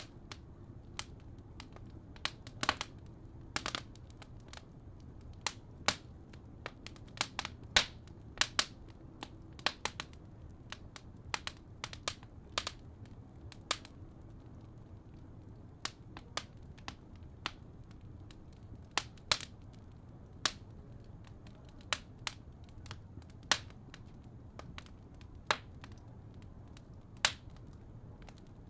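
Wood fire crackling in a fireplace: irregular sharp pops and snaps at uneven intervals over a steady low rumble.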